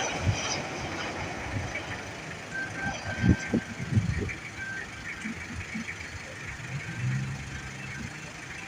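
Airport ambience with vehicle noise, a few short beeps and some low thumps.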